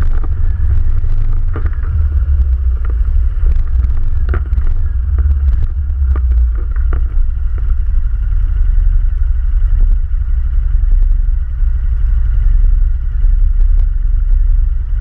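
ATV running steadily with a heavy low rumble, with scattered knocks and rattles during the first seven seconds or so.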